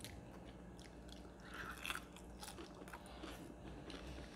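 Biting into and chewing crispy Jollibee fried chicken: faint, scattered crunches of the breaded skin, a small cluster of them about two seconds in.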